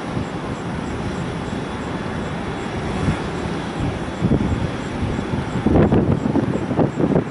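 Strong wind buffeting the microphone in irregular gusts over a steady roar, the gusts getting heavier near the end.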